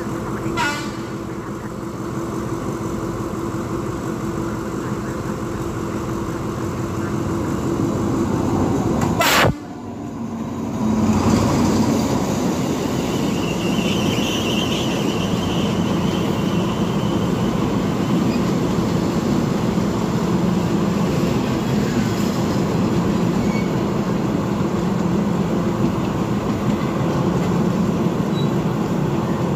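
Train running noise heard at the open window of a moving train. About nine and a half seconds in there is a sharp crack, then a passenger train's coaches rattle past on the next track, louder than before.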